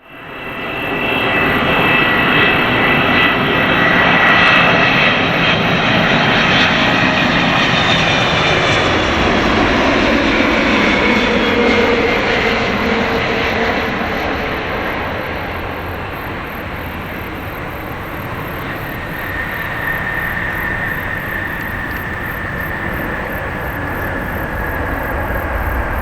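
Boeing 777-200ER jet airliner landing, its twin turbofan engines running with a loud rushing noise and high whining tones. The noise eases about halfway through, and a single whine comes back near the end.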